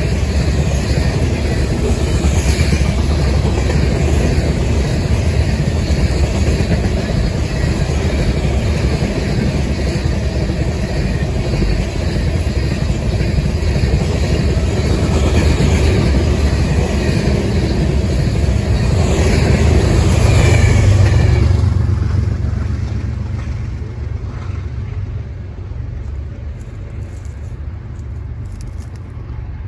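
Empty covered hopper cars of a freight train rolling past close by: a steady rumble of steel wheels on the rails. It swells about two-thirds in, then fades away as the end of the train goes by.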